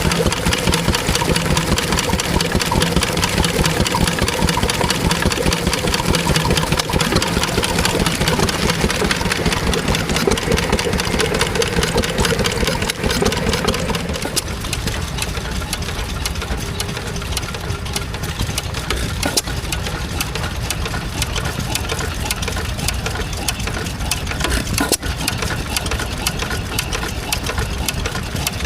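An engine running steadily with a fast, even beat. About halfway through, a steady hum drops out and the sound becomes a little quieter.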